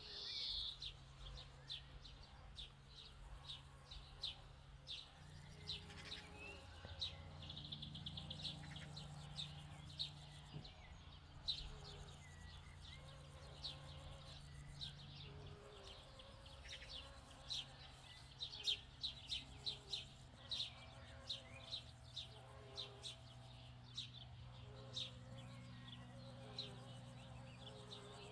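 Songbirds chirping and singing, many short high chirps and a few quick trills, over a faint low steady hum.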